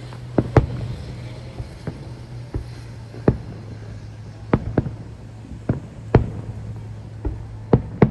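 Fireworks going off: about a dozen sharp bangs at irregular intervals, over a steady low hum.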